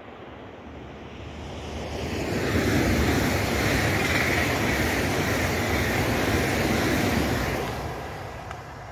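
Hitachi Class 801 Azuma electric train, unit 801225, passing at speed: a steady rush of wheels on rails and air that builds over the first couple of seconds, stays loud for about five seconds as the coaches go by, then fades as the train draws away.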